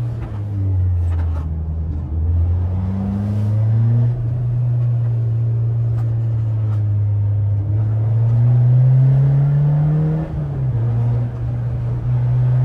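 Peugeot 206's four-cylinder engine through a straight-piped exhaust and open intake, pulling under load on a hill road: the pitch drops at the very start as a gear is changed, climbs steadily, then rises again before dropping sharply at about ten seconds with the next upshift.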